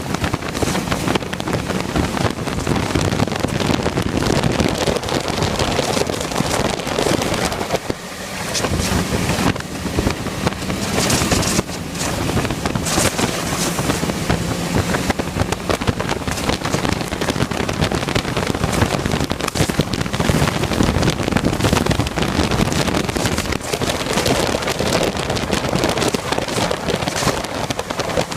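Loud, steady wind noise buffeting the microphone, with a faint low hum underneath.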